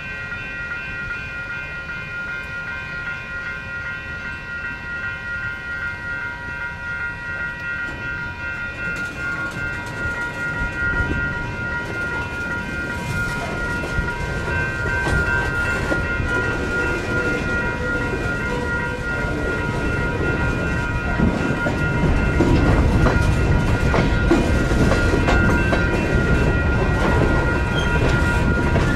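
A freight train rolling by, its wheels clacking over the rail joints and growing louder about two-thirds of the way through as it draws nearer. A steady, high, multi-toned ringing runs under it.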